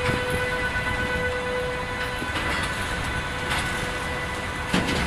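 Train departing behind electric locomotive 111Ed-005, a Siemens Vectron: wheels clack over rail joints roughly every second, the last clack the loudest, over a steady high whine and a low rumble.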